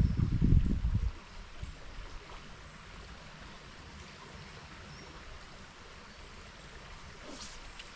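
Low rumble on the microphone for about the first second, then river water running steadily.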